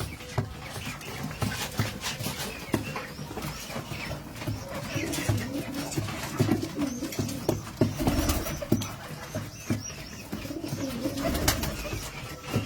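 Domestic pigeons cooing in low, wavering calls, mostly in the second half, over frequent light clicks and taps.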